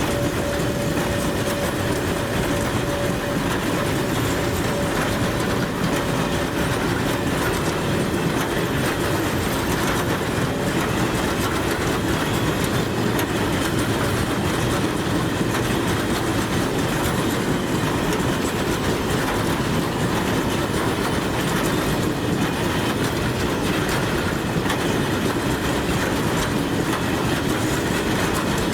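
Train rolling past on the rails, a steady, loud rumble with the clatter of wheels over rail joints. A thin, steady high tone fades away over the first ten seconds or so.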